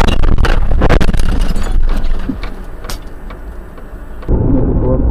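Dashcam recording of a car collision: a rapid series of loud crashing impacts and clatter in the first two seconds, dying away to a low rumble. About four seconds in it cuts abruptly to a steady, loud low rumble of another car's engine and road noise.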